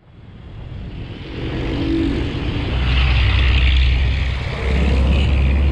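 Motorbike engine running on the move, with a steady low drone and road noise; it fades in at the start and dips briefly about four and a half seconds in.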